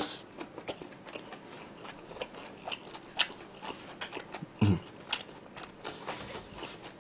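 Close-miked chewing of a spoonful of food with lips closed: soft wet clicks and smacks, scattered irregularly, with a brief low hum from the eater about four and a half seconds in.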